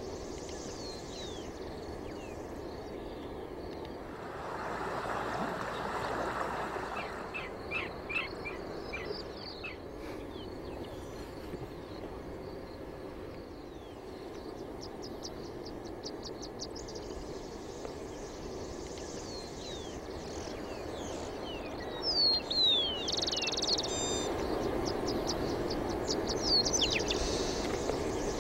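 Several birds calling: short descending whistles and quick series of chirps, with a louder cluster of calls about two-thirds of the way through, over a steady low rushing background.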